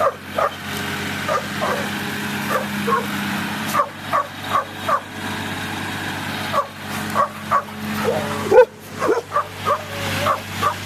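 Dogs barking repeatedly in short, sharp barks, several close together, over the steady low drone of a running engine, likely the tractor they are excited about.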